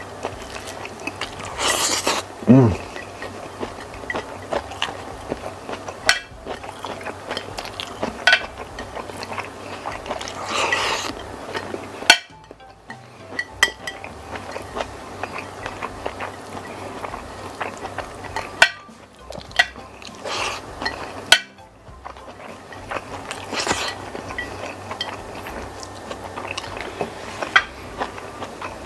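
Close-up eating sounds of a person eating cuttlefish in sambal with rice by hand: wet chewing, lip smacks and finger-licking, with short clinks of a plate now and then.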